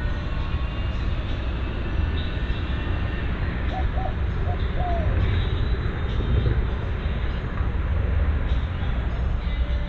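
A dove cooing, four short notes about four seconds in, the last one falling, over a loud steady low rumble.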